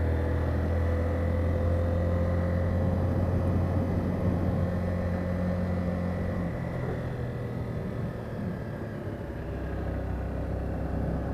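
Small motorcycle engine running while riding along, its note shifting a few times.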